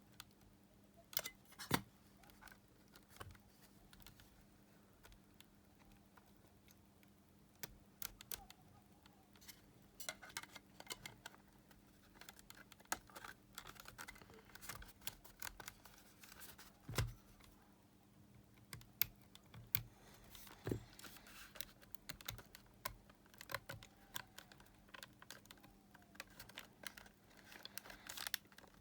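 Irregular small clicks and taps of hands handling and working on small plastic and metal parts, over a faint steady hum.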